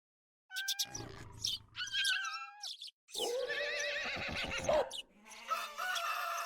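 A string of animal calls one after another: a few short calls in the first two seconds or so, then a horse's long, wavering whinny from about three to five seconds in, then another call near the end.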